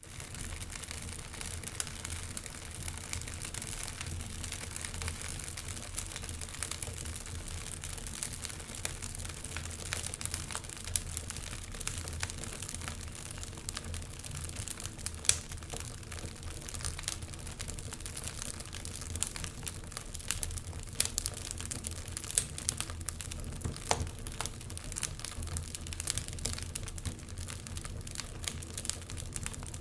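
Wood fire burning in a fireplace, crackling with frequent irregular sharp pops over a low steady rumble, one louder pop about halfway through.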